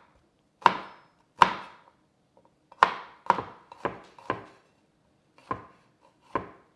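Kitchen knife chopping down onto a cutting board: eight sharp, separate chops at an uneven pace, with a quick run of four in the middle.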